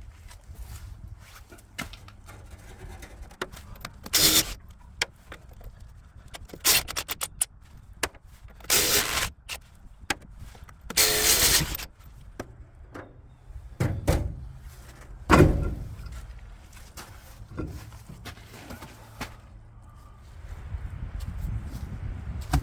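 Irregular knocks, clicks and scrapes of hands-on work with tools and parts, with several louder scraping bursts of a second or so, the longest about 11 to 12 seconds in.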